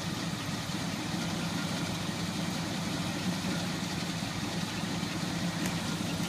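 Chevy Suburban's 305 V8, bored .030 over, idling steadily through glass-pack mufflers with no catalytic converters.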